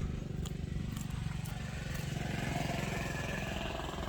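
A small engine running steadily with an even low pulsing, with a few faint clicks in the first two seconds.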